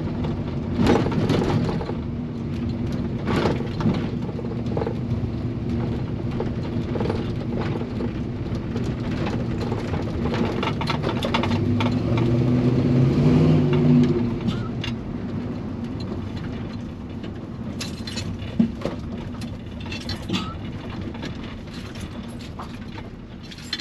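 Chevy C-10 pickup's engine running while driving, with scattered knocks and rattles. About eleven seconds in it climbs in pitch and grows louder as it accelerates, then eases off and gets quieter toward the end. The owner says the engine is running rich.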